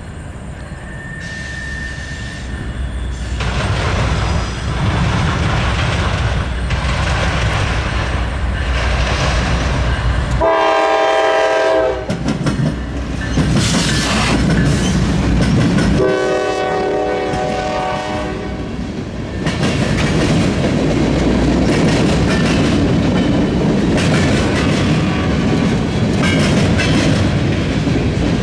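Diesel freight train approaching and passing with a heavy, steady rumble and wheel clatter over the rails. Its multi-note horn sounds twice: a short blast about ten seconds in, then a longer one about five seconds later.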